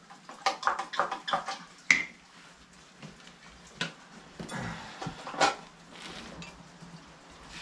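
Metal parts and hand tools clinking and knocking as they are handled during a teardown, in scattered short strikes with a few louder ones.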